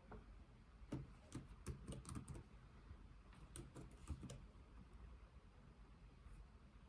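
Slow, soft typing on a computer keyboard: two short runs of a few keystrokes each, about a second in and again around the middle, then a pause with no keys pressed.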